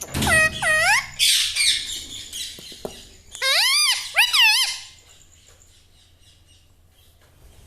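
Pet Indian ringneck parrot vocalising in short bursts of high, swooping squawks and harsh screechy chatter, in the first two seconds and again about three and a half to five seconds in.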